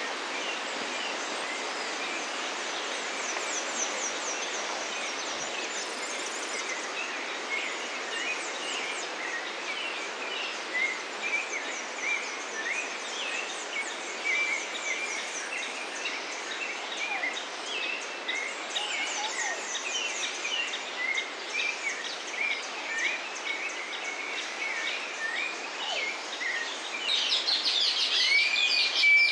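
Many birds calling over a steady background hiss of tropical forest: short chirps and whistles keep recurring, with fine high ticking above them. Near the end a louder burst of shrill calls comes in.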